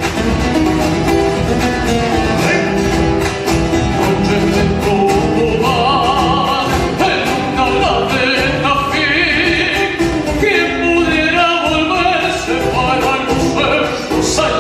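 Argentine folk song with acoustic guitar accompaniment; a voice comes in about six seconds in, singing with vibrato.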